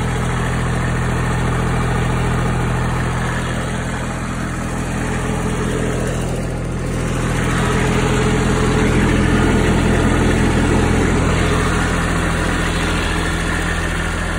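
Toro Groundsmaster 328D's Kubota diesel engine running steadily. It gets somewhat louder for a few seconds past the middle.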